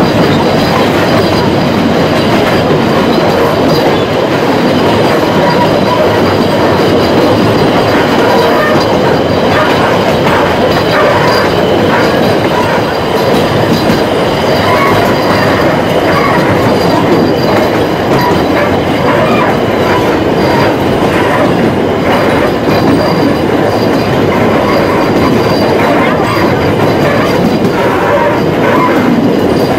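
Running noise of a 2 ft 6 in narrow-gauge steam train heard from aboard a carriage: a steady loud rumble and clatter of wheels on rail. Thin wheel squeal comes and goes as the train takes curves.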